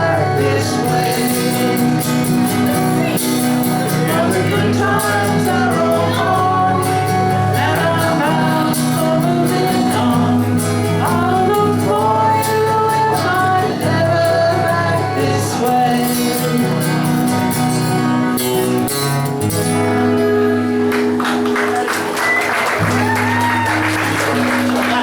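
Live folk song with several voices singing over instrumental backing, closing out the final lines. About 21 seconds in the singing gives way to audience applause while the instruments hold a last chord.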